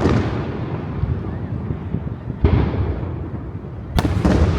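Aerial fireworks bursting overhead: a boom about halfway through and a sharper, louder bang near the end, each followed by a rumble that dies away.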